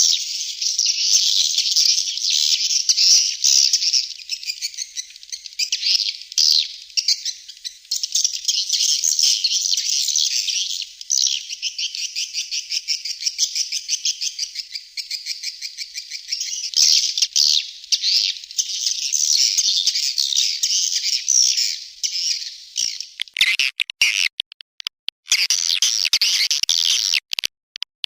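Swiftlet calls played as a lure sound for swiftlet farming: a dense, continuous run of rapid high chirps and trills, breaking off briefly a few times near the end.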